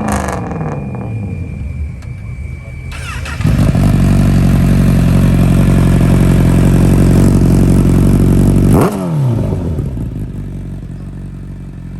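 1,000 cc motorcycle engine revved: it settles from a rev to idle, then is held at steady high revs for about five seconds, loud, before dropping sharply back to idle.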